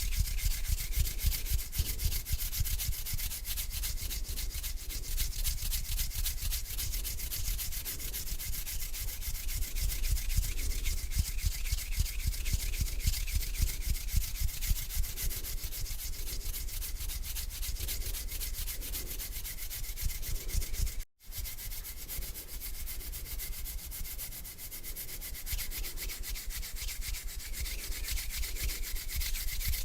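Close-miked hands rubbing together, a dense dry rasping swish of skin on skin that keeps on stroke after stroke. It cuts out abruptly for a moment about two-thirds of the way through, then resumes.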